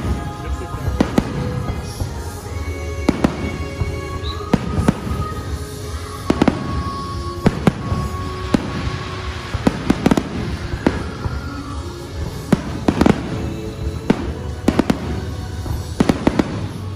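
Aerial fireworks shells bursting in a show: about twenty sharp bangs at irregular intervals, roughly one a second and sometimes two in quick succession. Music plays steadily underneath.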